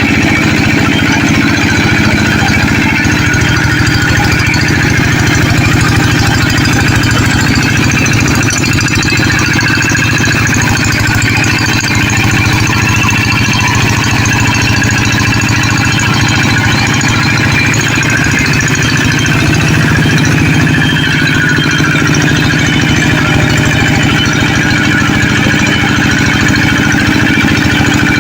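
Tractor engine running steadily with an even, rapid chugging beat.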